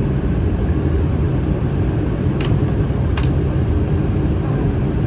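Steady rumble of an Airbus A319's cabin in flight, from its CFM56 engines and the airflow. Two short clicks come a little under a second apart, midway through.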